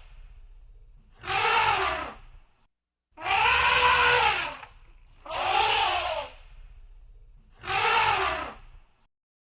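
Elephant trumpeting, four calls about a second each, spaced roughly two seconds apart, each rising then falling in pitch, over a low rumble.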